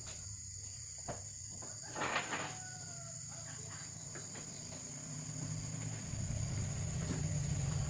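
A steady high-pitched insect drone with a few faint clicks and a short, faint animal call about two and a half seconds in; a low rumble builds over the last couple of seconds.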